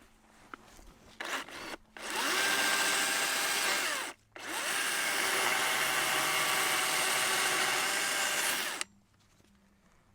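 Electric chainsaw cutting in two runs, a short one and then a longer one after a brief pause. The motor winds up quickly at each start and stops dead, with no idle between cuts.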